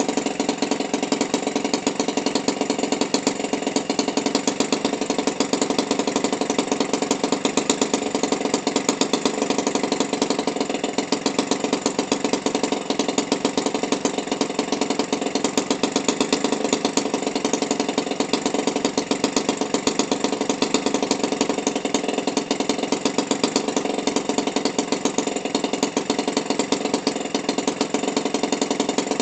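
Toro 28cc string-trimmer engine idling steadily at about 1500 RPM, a fast, even run of firing pulses.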